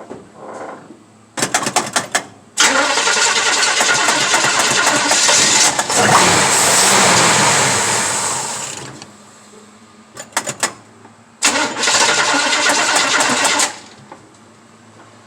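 Cold start of a 383 stroker small-block Chevy V8, built from a 400 block and a 350 crank, after it has sat for over two years. In the first attempt it is cranked, catches and runs for several seconds, then winds down with a falling pitch. A second attempt about ten seconds in lasts roughly two seconds and cuts off suddenly.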